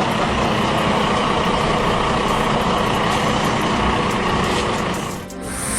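Heavy vehicle engine running steadily, cutting off abruptly near the end.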